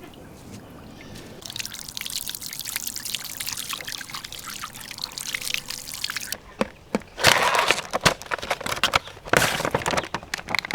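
Water pouring in a steady hissing stream, then louder irregular gushes and splashes in the second half.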